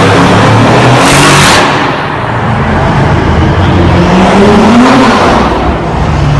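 Loud supercar engines revving and accelerating through the street, with one engine's pitch rising about four to five seconds in.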